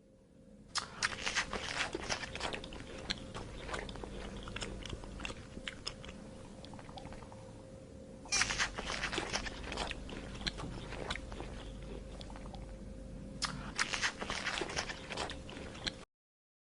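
An animal crunching and chewing crisp food in a long run of sharp crunches, with denser flurries about a second in, about eight seconds in and near the end, over a faint steady hum.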